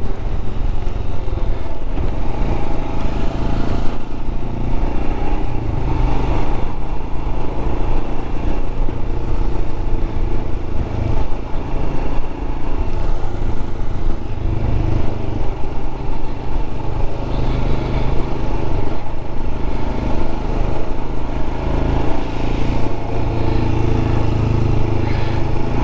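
Royal Enfield Scram 411's single-cylinder engine running at a steady cruise, its pitch shifting a little with the throttle, under constant wind noise on the helmet microphone.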